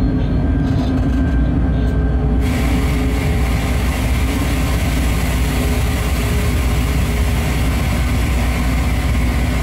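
Running noise of a freight train heard from the locomotive cab at speed: a steady low rumble of wheels on rails with a constant hum. About two and a half seconds in, a higher hiss comes in suddenly and stays.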